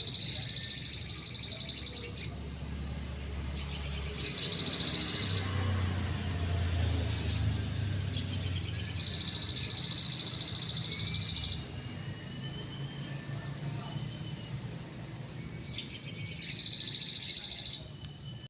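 Little spiderhunter (sogon) singing: four long, rapid, high-pitched trills of about two seconds each, with fainter calls between them.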